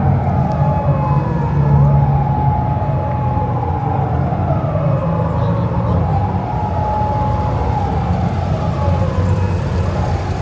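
Steady vehicle drone, with several tones that fall in pitch one after another, as vehicles pass.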